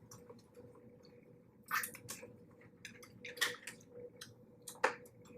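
Eating sounds from boiled blue crab: a few short, wet cracks and squishes as the shell and legs are pulled apart and chewed, over a faint steady hum.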